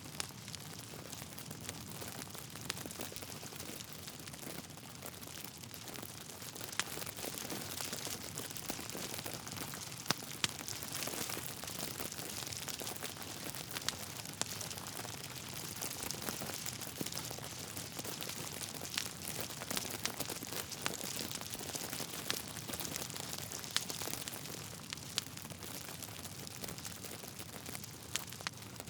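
Wood fire burning in a fireplace: a steady crackling hiss with scattered sharp pops from the burning logs, a few louder pops about ten seconds in.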